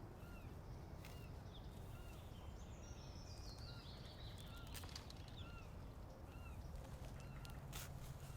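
Birds calling in woodland: short chirps repeating about every two-thirds of a second, and a quick series of notes stepping down in pitch about three seconds in, over a quiet background with a few sharp clicks.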